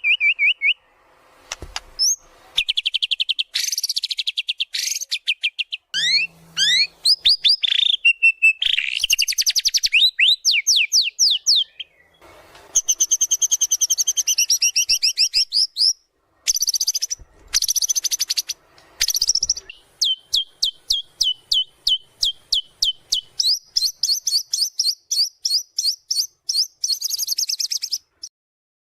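White-rumped shama (murai batu) singing a loud, varied song of rapid trills, fast rising sweeps and rattling runs, broken by a few short pauses. The last third is a long series of quick repeated notes, several a second.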